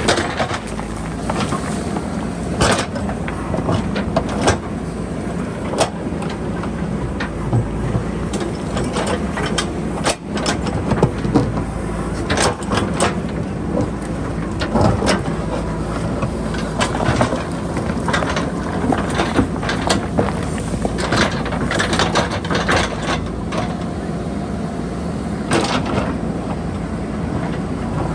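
JCB backhoe loader's diesel engine running steadily under work, with repeated sharp knocks and clanks of the bucket against rock and boulders.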